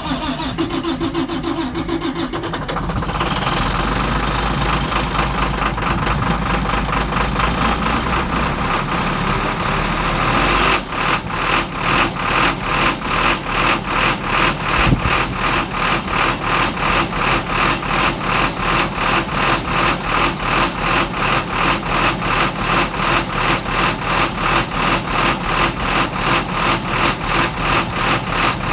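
Diesel engine of a 2012 IC RE school bus starting cold at 15 degrees after sitting a week, then running. About eleven seconds in, the engine sound changes to an even pulsing of a few beats a second.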